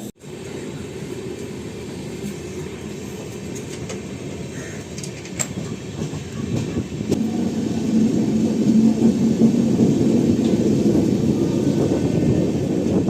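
Passenger train running on the track, heard from a moving coach: a steady low rumble that grows louder about two-thirds of the way through.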